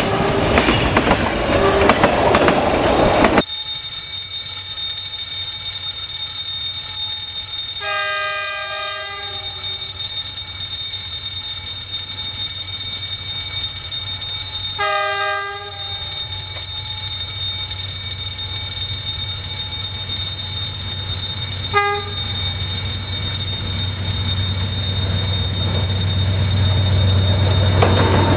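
Freight train wagons rumbling past at close range, cut off abruptly about three seconds in. Then a D19E diesel locomotive's air horn sounds a chord twice, about a second each, and once more briefly, while the low rumble of its engine grows louder as it approaches.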